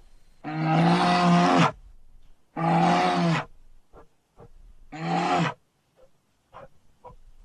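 Bear vocalisations from a sun bear and black bear sound-effect mix: three loud, held calls of steady pitch, each a second or less, the last one shortest, followed by a few faint clicks.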